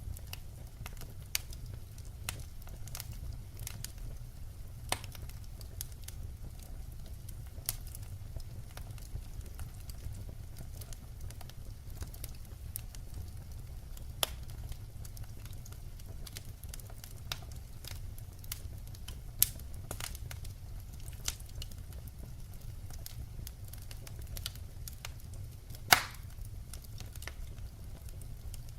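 Wood fire burning, crackling with scattered sharp pops over a steady low rumble; the loudest pop comes near the end.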